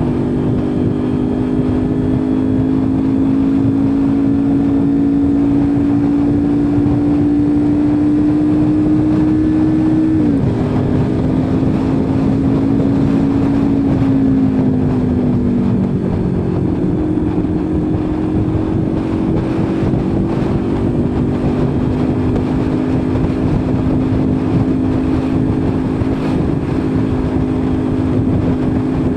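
Kawasaki Ninja 400 parallel-twin engine running at road speed under the rush of wind. The engine note climbs slowly, drops sharply about ten seconds in as it shifts up, sinks again a few seconds later as the bike slows, then holds steady.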